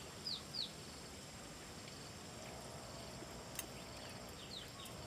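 Faint bird chirps, short high notes each falling in pitch. Two come quickly one after the other near the start and a few more near the end, over a steady hiss, with a single sharp click midway.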